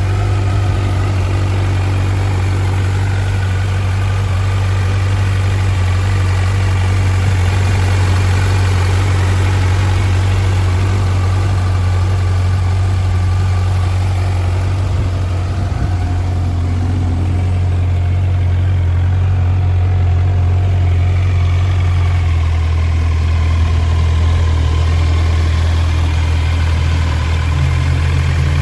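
Kawasaki Z900 (2021) 948 cc inline-four engine idling steadily. About two-thirds of the way through, the idle settles slightly lower.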